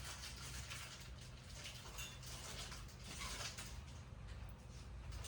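Faint patter of typhoon rain, an even hiss with soft uneven swells.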